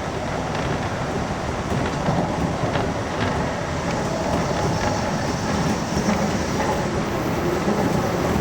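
Keihan Electric Railway commuter train running along the line, heard from inside the front car: a steady rumble with scattered light clicks of the wheels over rail joints.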